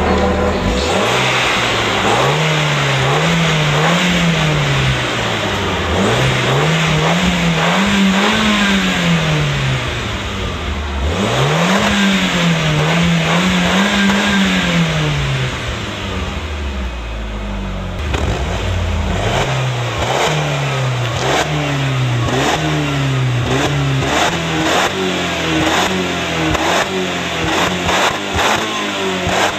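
Audi TT engine breathing through a Stebro performance exhaust, revved up and down repeatedly. It starts with a few longer rises and falls, then from about two-thirds of the way in gives a run of shorter, quicker blips.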